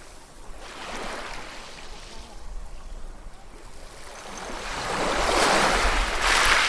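Ocean waves washing in: a small swell about a second in, a lull, then a bigger wave building from about four seconds in and loudest near the end.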